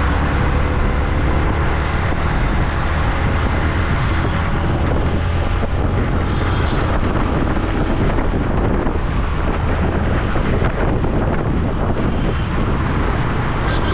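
Steady wind rush buffeting the microphone of a camera on a moving motorcycle, over a continuous low rumble of engine and road noise.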